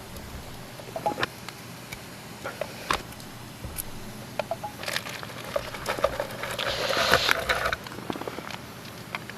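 Crinkling and rustling of packaging, loudest in a stretch between about five and eight seconds in, among scattered light clicks and knocks of handling.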